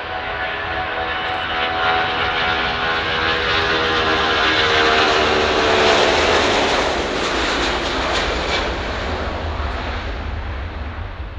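Jet airliner's engines going past: a whine of several steady tones over a low rumble builds to its loudest about six seconds in. The tones then give way to a rushing noise that slowly fades as the aircraft moves away.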